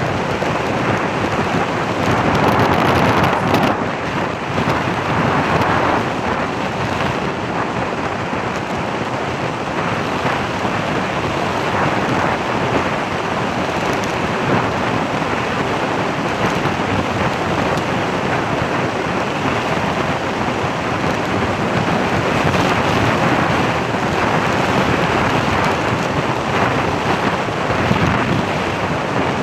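Steady loud wind rush and road noise from a moving vehicle, without tones or pauses, swelling slightly now and then.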